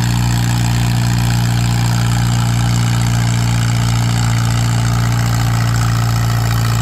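Antique tractor engine running steadily at constant speed while pulling the sled, a loud even engine note with no change in pitch.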